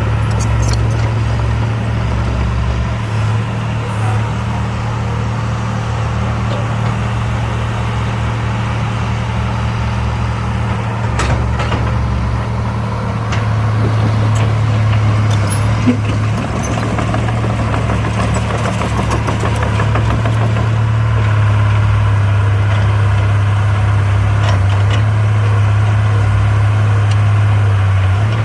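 Diesel engine of heavy earthmoving machinery running steadily, a little louder in the second half, with a few sharp metallic knocks.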